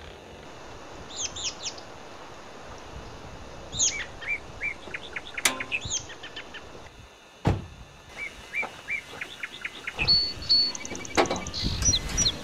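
Small birds chirping: many short, high notes, each falling quickly in pitch, repeated in quick runs. A single thump about seven and a half seconds in, and a sharp click a couple of seconds before it.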